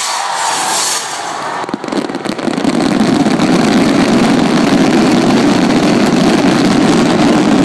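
Fireworks display: a dense, continuous barrage of bangs and crackling that sets in about two seconds in and keeps going.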